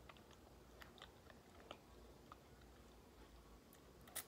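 Faint chewing of food with the mouth, heard as scattered soft clicks and smacks, with a sharper click near the end.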